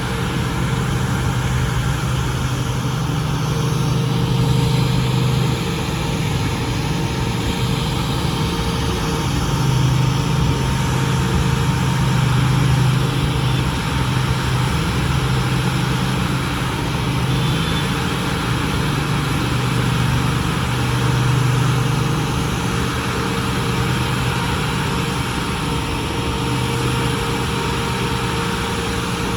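Heavy asphalt-paving machinery running steadily: a low engine hum that swells and eases every few seconds, with a faint steady higher tone over it.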